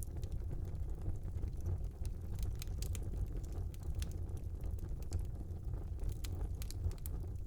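Small wood fire burning in a fireplace: a steady low rumble of the flames with scattered sharp crackles and pops from the burning wood.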